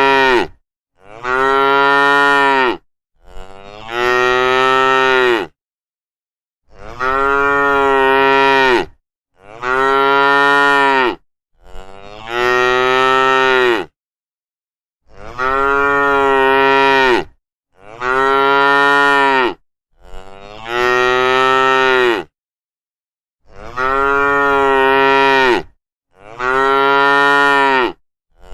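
Cattle mooing: about ten long, loud moos one after another, coming in sets of three, with dead silence between the sets.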